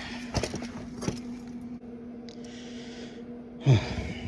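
A man shifting his body while lying on the ground: two sharp knocks, a breath, then a short grunt that falls in pitch near the end, over a steady low hum.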